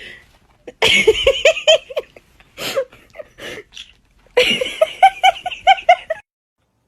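High-pitched laughter in two bouts of quick repeated ha-ha notes, the second starting about four and a half seconds in, cutting off abruptly near the end.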